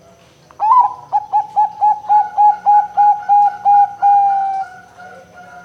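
Zebra dove (perkutut) cooing: a fast, even run of about a dozen short staccato coos, ending in one longer drawn-out note.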